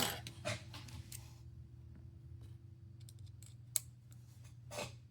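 Faint, scattered small clicks and ticks of a hand-turned precision screwdriver working a tiny Y-type screw in a smartphone, with one sharper click a little before the end.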